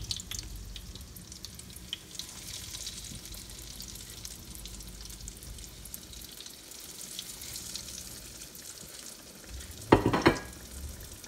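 Breaded and gram-flour-coated shami kababs shallow-frying in oil over low heat: a steady sizzle with small crackles. About ten seconds in, a brief loud clatter.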